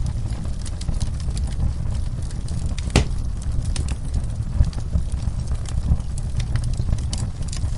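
Wood fire burning in a fireplace, crackling: scattered pops and snaps over a steady low rumble, with one sharp crack about three seconds in.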